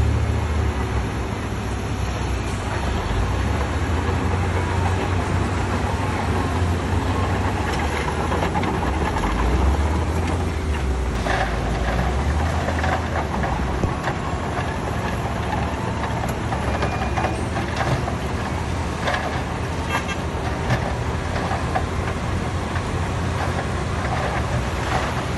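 Heavy diesel earthmoving machinery running steadily with a deep engine rumble that rises and falls over the first ten seconds, with a few short metallic clanks or knocks later on.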